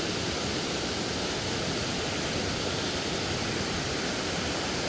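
Shallow river water rushing over rocks at a small waterfall: a steady, even rush of noise.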